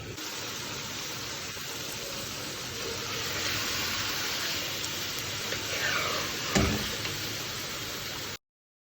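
Palak chicken (spinach and chicken curry) sizzling in the pan, a steady hiss, with a single knock about six and a half seconds in. The sound cuts off abruptly shortly before the end.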